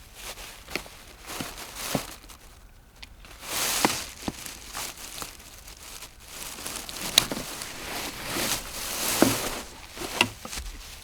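Irregular rustling and crinkling handling noise with scattered small knocks and clicks.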